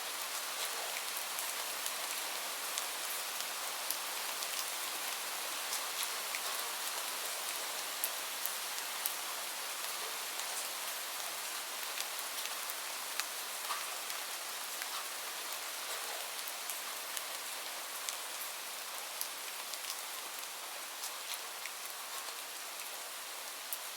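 Steady rain falling, with scattered sharp clicks and pops throughout.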